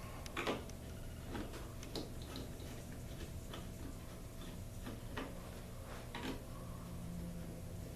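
Irregular light clicks and scrapes, about six spread over several seconds, from a light bulb being handled and screwed into the garage door opener's lamp socket, over a steady low hum.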